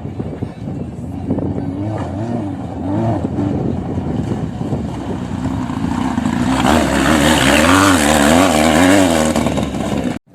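Dirt bike engine revving up and down in quick waves while riding off-road, getting louder for a few seconds past the middle, then cut off suddenly just before the end.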